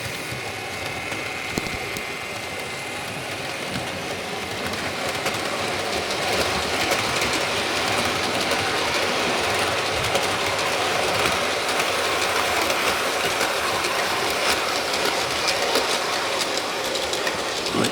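Model Virgin HST train running on the layout's track: a steady motor whine and the rumble of its wheels on the rails, growing a little louder as it comes along.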